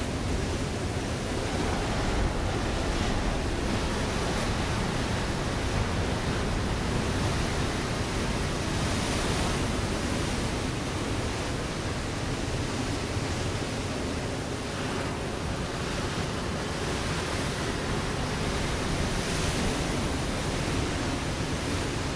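Ocean waves breaking on a rocky shore: a continuous wash of surf that swells louder a few times.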